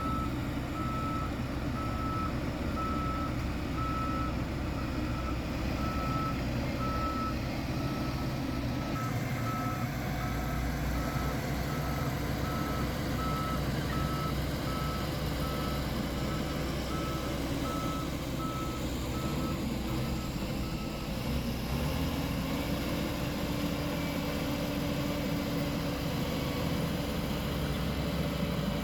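A heavy construction vehicle's reversing alarm beeping steadily at one pitch, about once a second, over the low running of its engine; the beeping stops about two-thirds of the way through and the engine runs on.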